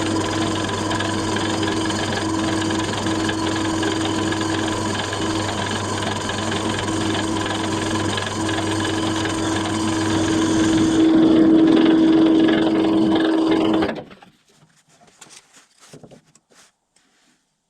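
An electric motor, from an old motor being reworked into a homemade vibrating plate, running steadily with a strong hum. It gets louder about eleven seconds in, then is switched off about fourteen seconds in. Only a few faint knocks follow.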